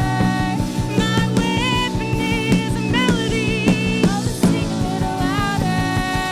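Live worship band music: a steady drum beat under sustained melodic lines from guitar or voice.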